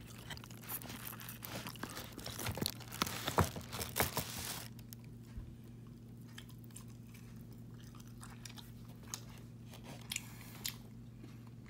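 Close-up chewing and crunching of seasoned roast chicken skin, a busy run of small crackles that dies down about four and a half seconds in, with a few faint clicks near the end.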